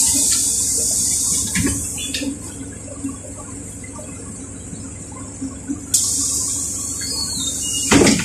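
Compressed air hissing from a LiAZ 4292 city bus's pneumatic system in two sudden bursts about six seconds apart, each fading over a second or two, with a loud thump near the end and the bus's steady low hum underneath.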